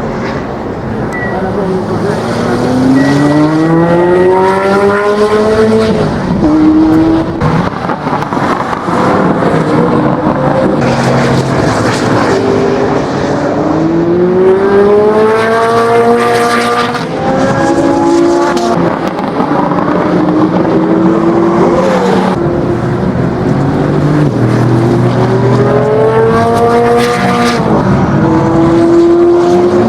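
Ferrari F40's twin-turbo V8 accelerating hard: the engine note climbs steeply, breaks off and climbs again, about three times.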